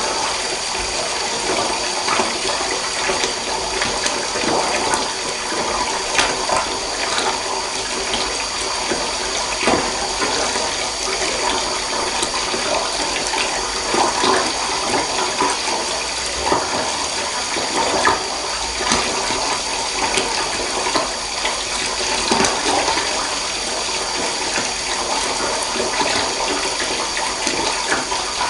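Water running into a bathtub: a steady rush with frequent small splashes.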